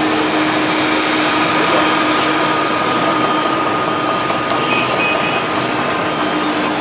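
Jet airliner engines running steadily, a loud even rush with a steady whine held over it.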